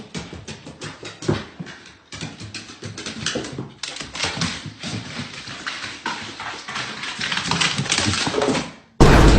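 A dog making a long run of short, irregular sounds that grow louder toward the end, then cut off suddenly; a louder, different sound starts right at the end.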